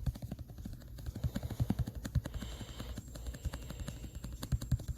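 Rapid, irregular clicks and taps, several a second, over a steady low hum.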